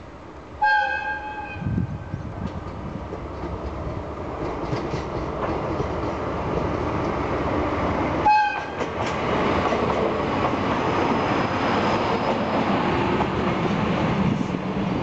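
JR DE10 diesel-hydraulic locomotive sounding its horn in a blast about a second long, then its engine growing louder as it approaches. A second short horn blast comes about eight seconds in, followed by the locomotive and its 14-series passenger coaches rolling past on the rails.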